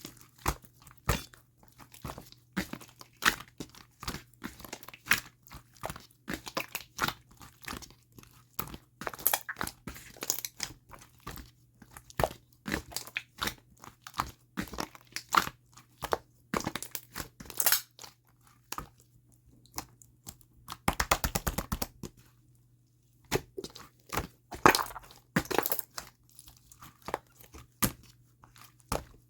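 Slime being squished and worked by hand, making irregular crunchy clicks and pops, with a quick run of rapid crackles about two-thirds of the way through. A faint steady low hum lies underneath.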